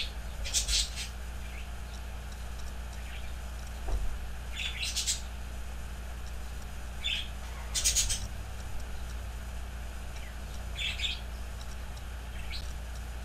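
Pet bird giving short, high chirps, spaced a second or more apart, over a steady low hum.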